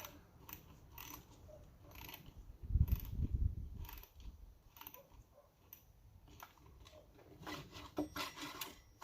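Scattered clicks and small metal knocks from hands and tools working on a Yamaha Moto-4's recoil pull-start assembly, with a heavier low thump about three seconds in.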